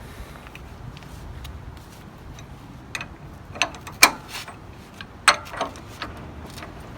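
Sharp metallic clicks and clanks, a handful between about three and six seconds in, the loudest near four and five seconds, from a wrench being worked to turn the 1962 VW Type 2's air-cooled flat-four by hand and test whether the engine is seized.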